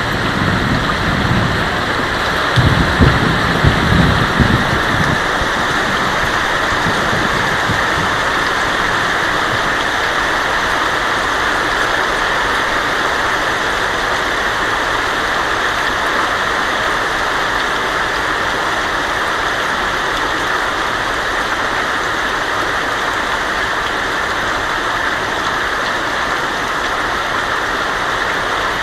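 Heavy rain falling steadily on a tin roof as an even hiss, with a low rumble of thunder in the first few seconds.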